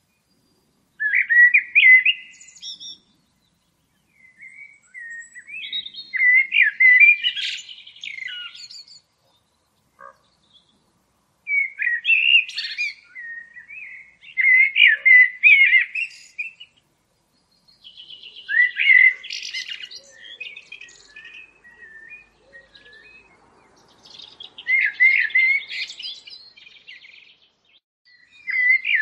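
A songbird singing in repeated phrases of rapid chirps and warbles, each phrase lasting a few seconds, with short pauses between.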